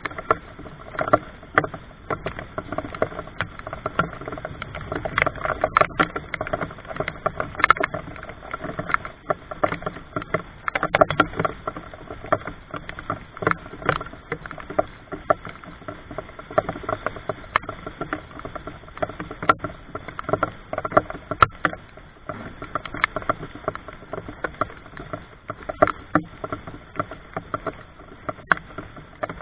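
Rain falling, a steady hiss with many irregular sharp drop taps.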